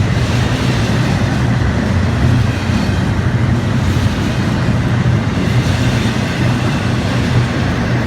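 Freight train cars rolling past, a loud, steady rolling noise.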